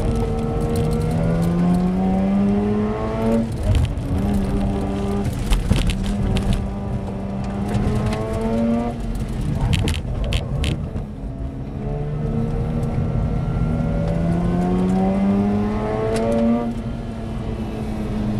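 Mazda RX-8's twin-rotor Wankel rotary engine, heard from inside the car, revving hard on a sprint run: its note climbs in long sweeps and falls abruptly about three times at gear changes or lifts off the throttle. Sharp cracks break in where the engine note drops.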